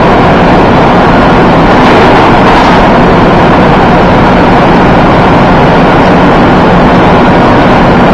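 Loud, steady engine and machinery noise, an unbroken rumble with a faint steady hum.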